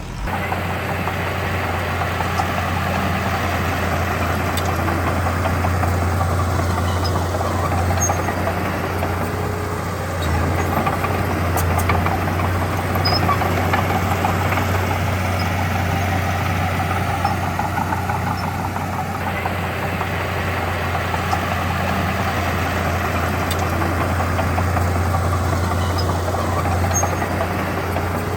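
Heavy earthmoving machine's diesel engine running steadily at close range: a deep, constant hum with a rough, rattly noise over it and only small changes in level.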